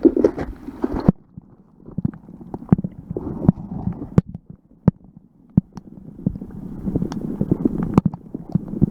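Muffled sloshing and gurgling of rain-puddle water around a waterproof camera dragged through it, with scattered sharp knocks against the housing. It is loud in the first second, drops in the middle and builds again near the end.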